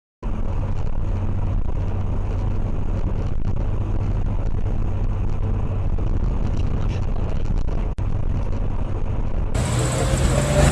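Steady engine and road rumble of a car as a dash camera records it, with a low hum. A brief dropout comes about eight seconds in, and near the end it cuts to a brighter, louder recording of traffic.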